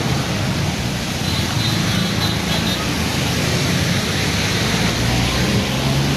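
Steady traffic noise on a rain-flooded road: vehicle engines running under a constant wash of water and tyre hiss.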